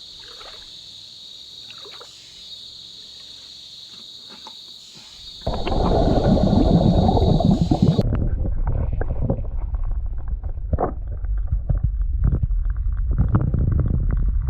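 Steady chirping of insects, then from about five seconds in loud water sloshing and gurgling as a baited plastic-bottle fish trap is worked in a pond. The water sound turns duller after about eight seconds.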